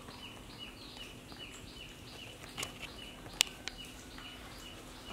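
A bird chirping over and over, short high calls that each fall in pitch, about two and a half a second. One sharp click about three and a half seconds in.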